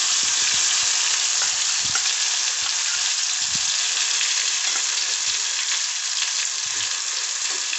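Freshly added ground chilli, onion and coconut paste sizzling steadily in hot oil in a kadai, with a few light spatula scrapes.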